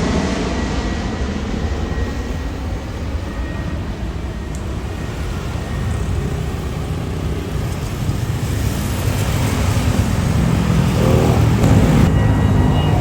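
Boeing 777-300's Rolls-Royce Trent jet engines rumbling as the airliner departs. The deep roar eases slightly, then builds again toward the end.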